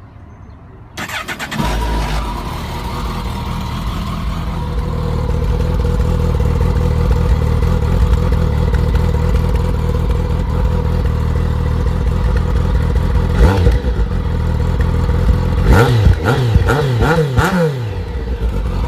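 A 2014 Kawasaki Concours 14's inline-four on its stock exhaust is started about a second in, cranking briefly and catching, then idles steadily. It is blipped once and then revved in about four quick rises and falls near the end before settling back to idle; the stock exhaust note is quiet, "silent" to the owner, who wants it more thumpy.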